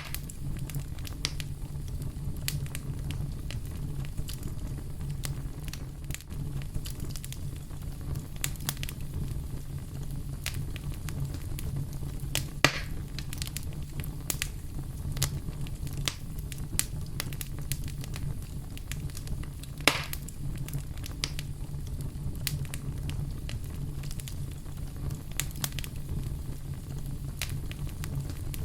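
Campfire crackling, with irregular small snaps and a few louder pops about 13 and 20 seconds in, over a steady low rumble.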